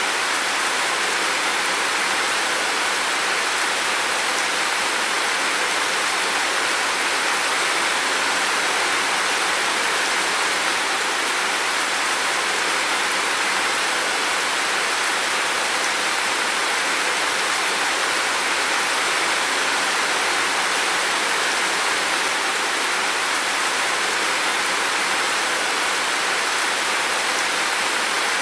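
Heavy rain falling steadily: an even, unbroken hiss with no separate drops standing out.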